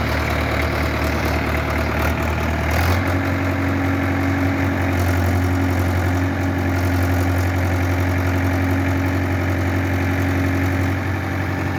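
Diesel tractor engine running steadily, then revving up about three seconds in and holding at the higher speed.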